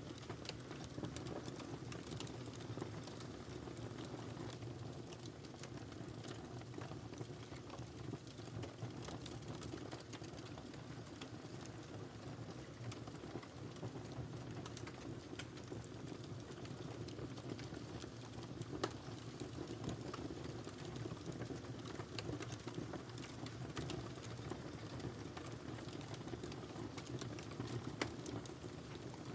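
Wood fire burning in a fireplace: a steady low rumble of flames with continuous crackling and scattered sharp pops, two of them standing out about two-thirds of the way through and near the end.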